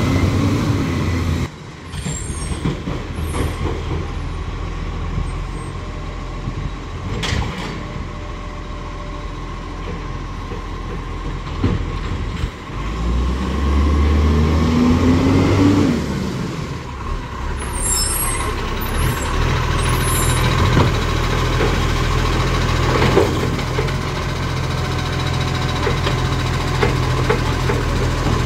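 Garbage truck's diesel engine running, revving up with a rising pitch about halfway through, with short hisses of air released near the start and again later.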